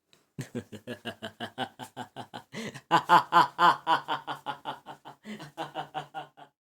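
A cartoon character's voice laughing in a long, rapid run of short 'ha' pulses, about five a second, loudest in the middle and breaking off briefly once near the end before carrying on.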